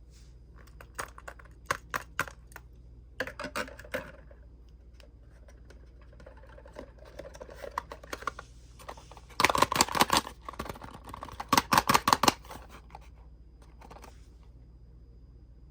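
Quick runs of sharp clicks and taps from small hard plastic and die-cast toy pieces being handled, with the two loudest flurries about ten and twelve seconds in.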